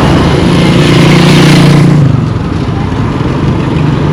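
A motor vehicle passing close by on the road: engine hum and tyre noise swell to a peak one to two seconds in, then fade.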